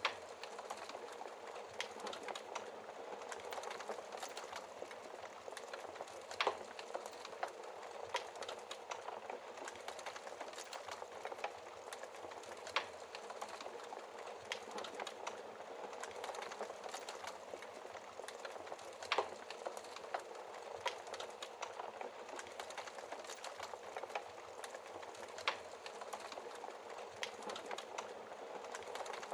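Wood fire crackling in a fireplace: a steady hiss of burning with many small crackles and a louder sharp pop every few seconds.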